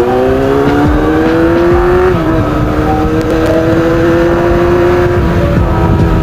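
Kawasaki Z800 inline-four engine under way. Its pitch climbs for about two seconds as it accelerates, dips briefly, holds steady, then eases down near the end, with wind noise underneath.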